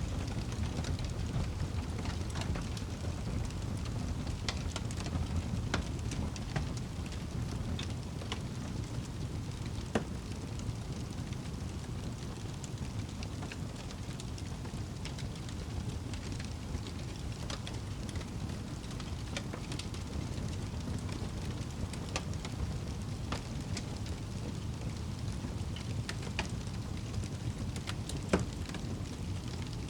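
Wood fire burning in a fireplace: a steady low rumble of flames with scattered small crackles, and two sharper pops, one about a third of the way in and one near the end.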